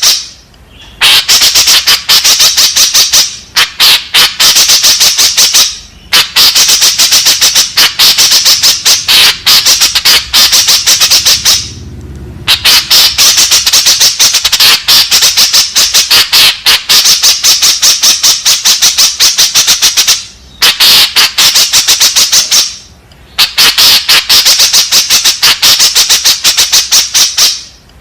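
White-breasted woodswallow (kekep babi) calling: long runs of rapid, harsh chattering notes, broken by short pauses every few seconds.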